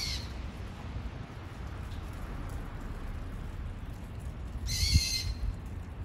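A small songbird gives a loud, harsh call of well under a second, about five seconds in. The tail end of an earlier call is heard right at the start.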